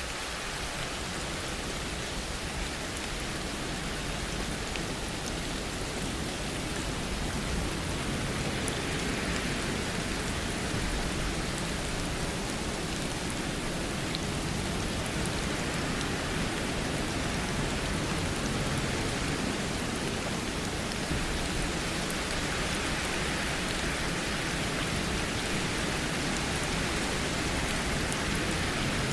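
Steady rain falling, an even hiss with faint scattered drop ticks, growing slightly louder over the first several seconds.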